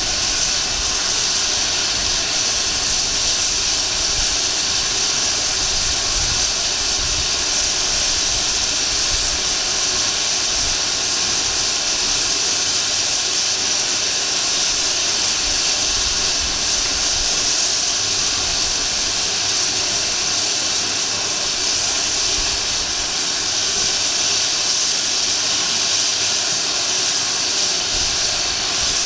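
Narrow-gauge steam locomotive venting steam in one steady, loud hiss.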